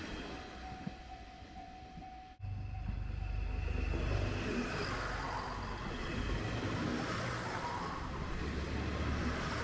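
Diesel train running, a steady low rumble. The sound cuts off abruptly about two and a half seconds in and resumes as a louder rumble.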